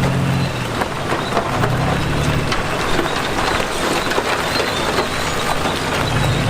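Diesel engine of heavy earthmoving equipment running, under a dense crackle of stones and earth crunching and tumbling. The engine hum sinks under the crackle after the first half second and comes back near the end.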